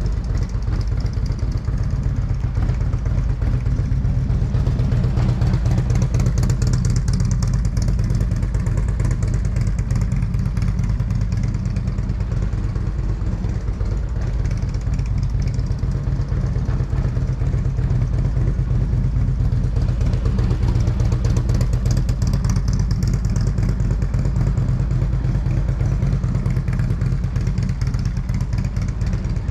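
Motorcycle engine running steadily, getting louder twice and then fading again.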